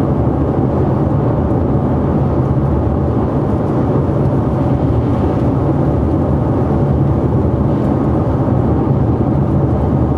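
Steady road and tyre noise with a low engine drone from a 2013 Ford Fusion Titanium driving on a wet road.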